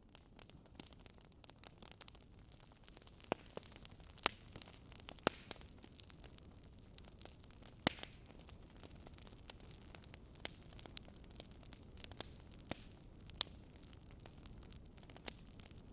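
Wood fire crackling in a fireplace: irregular sharp pops and snaps, a few louder ones, over a soft steady hiss.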